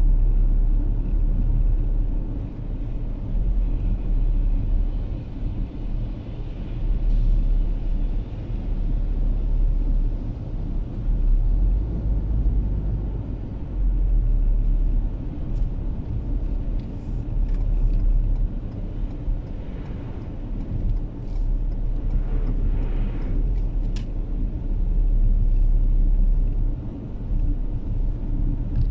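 Steady low rumble of a car driving on a snow-covered road, heard from inside the cabin: engine and tyre noise, rising and falling a little.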